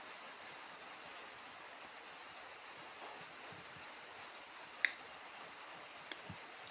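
Faint steady hiss with a sharp click about five seconds in and a smaller one near the end, from eating: mouth or utensil clicks during a meal.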